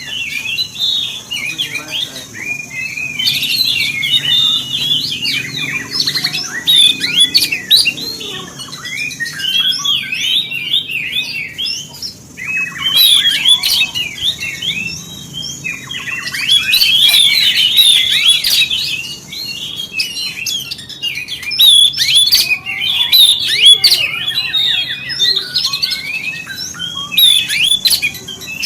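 Oriental magpie-robin singing a fast, varied run of chirps and whistles in long bouts, with brief pauses between phrases.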